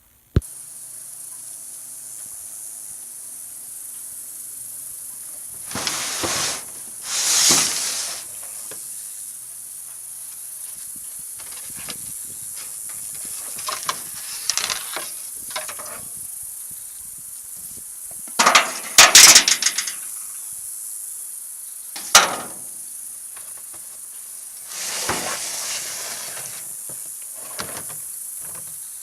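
Kayak and gear being handled: several bursts of scraping and clattering, including a dense rattling clatter about two-thirds of the way through and a sharp knock just after it. Under them runs a steady high hiss.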